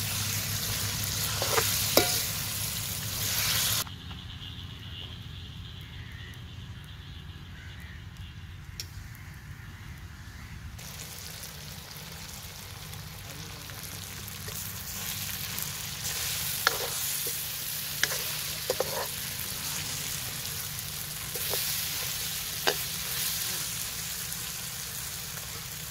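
Diced potatoes, onion and tomato sizzling in hot oil in a steel karahi, with a steel ladle stirring and scraping the pan. The sizzle drops suddenly about four seconds in and picks up again a few seconds later, and the ladle knocks sharply against the metal several times near the end.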